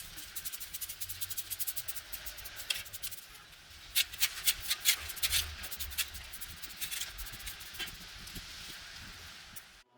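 Rapid, rhythmic scrubbing strokes, several a second, louder and sharper from about four seconds in, cutting off suddenly just before the end.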